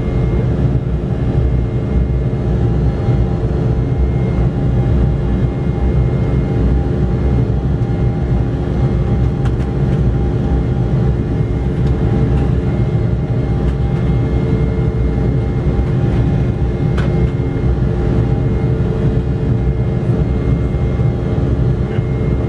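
Cabin noise of an Embraer E190 airliner, its two GE CF34-10E turbofans running steadily: a loud, even low rumble with several steady humming tones over it.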